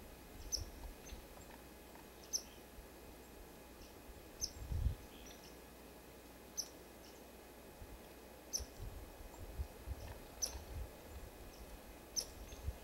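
A small bird at a winter feeder giving a short, sharp, high chirp about every two seconds, with scattered low rumbles underneath.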